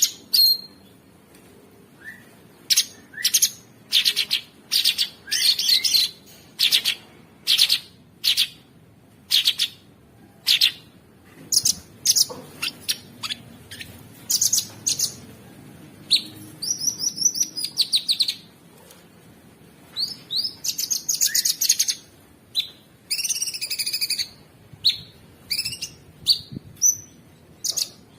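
A cucak sungkok songbird singing in short, loud bursts of rapid, rough chirps and trills, with brief pauses between phrases.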